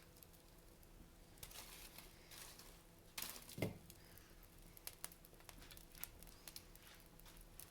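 Wood fire in a fireplace crackling faintly: scattered small snaps over a soft hiss, with one louder pop about three and a half seconds in.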